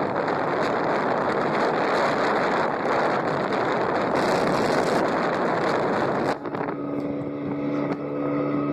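Wind rushing over the microphone on a moving motorbike, a steady roar of noise. About six seconds in the wind eases and the bike's engine comes through as a steady hum.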